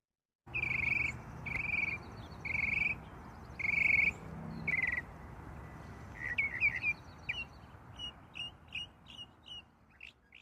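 Birds calling: five drawn-out, even-pitched notes about a second apart, then a run of quicker short chirps that grows fainter toward the end, over a steady low background noise.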